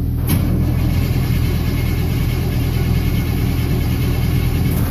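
The 1951 Chevrolet wagon's 400 cubic inch Chevy small block being cranked over by its starter: a click about a quarter second in, then cranking for about four and a half seconds that stops without the engine catching. A steady engine hum runs underneath.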